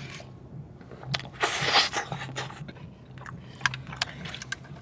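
Close-up eating sounds: a loud crunchy bite about a second and a half in, with small mouth clicks and chewing around it.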